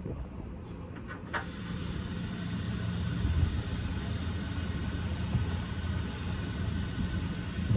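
An engine running with a steady low hum that grows louder about two seconds in, with a single sharp click just over a second in.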